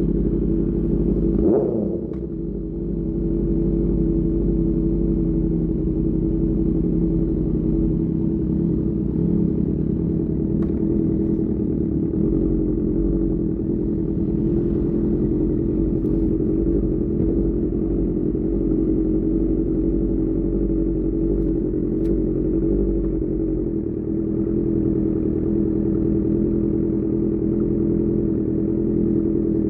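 Superbike engine running through an Austin Racing GP1R exhaust at a fairly steady speed, with a brief drop about two seconds in.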